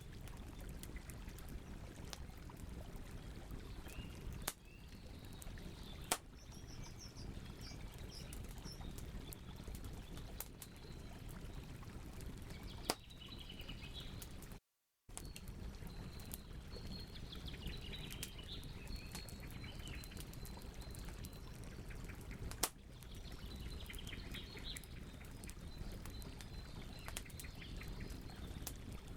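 Wood campfire crackling steadily with a few sharp pops, while birds chirp in the background. The sound cuts out for a split second about halfway through.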